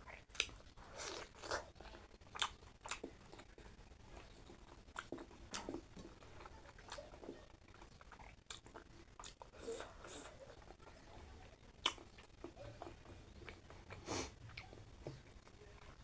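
A person chewing and eating a meal of mutton curry, rice and noodles close to the microphone: quiet, irregular clicks and crunches of biting and chewing.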